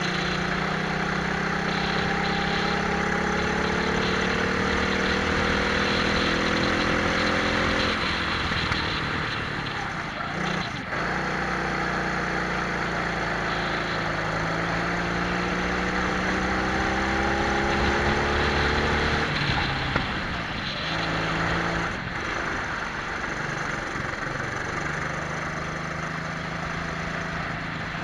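Twin-engine Prokart racing kart heard onboard, engines pulling with their pitch climbing under acceleration. The pitch falls away as the kart slows about eight seconds in and again near nineteen seconds, then climbs again, over a steady hiss.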